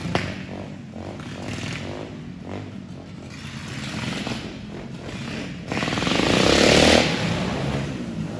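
Motorcycle engine running, louder for about a second a little past halfway through.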